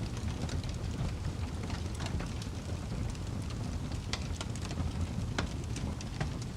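Fire burning: a steady low rumble with many small, irregular crackles and pops.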